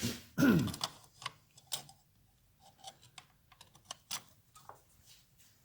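Steel and fiber clutch plates of a Triumph Bonneville clutch clinking as they are handled and stacked into the clutch basket: one louder scrape about half a second in, then a scatter of light metallic clicks.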